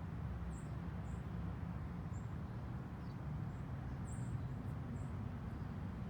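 Small birds giving short, very high chirps, about six of them scattered through, over a steady low rumble.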